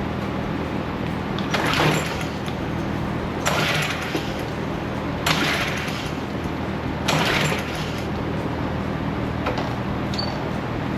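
Recoil starter cord on a Troy-Bilt pressure washer's small engine pulled four times, about two seconds apart, with the engine not catching; the men take it for an engine that is not getting fuel. A steady low hum runs underneath.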